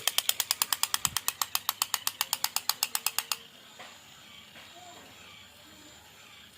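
A rapid, even run of sharp clicks, about ten a second, that stops about three and a half seconds in. After it there is only faint room sound.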